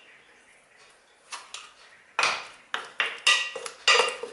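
A utensil clinking and knocking against a dish, several sharp ringing knocks in quick succession. It starts faintly about a second in and grows louder from about two seconds in, as the marinade is worked.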